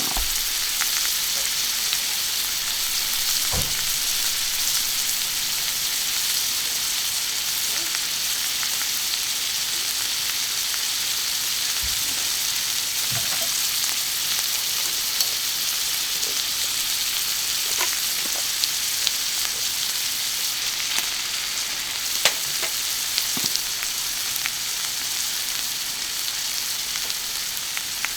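Meat and vegetables sizzling steadily on a thick iron griddle plate over a charcoal grill, with an occasional small pop of spattering fat.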